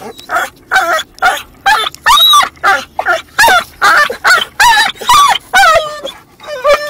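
A dog makes a rapid string of short, high-pitched, whining barks, about two a second, each call bending up and down in pitch.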